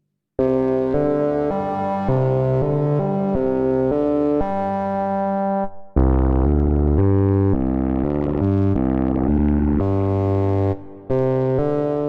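Waldorf Pulse 2 analog monosynth playing a bass-preset line of short stepped notes, one at a time, starting after a brief silence. After a short break near the middle, a second phrase comes in with a deeper, fuller low end.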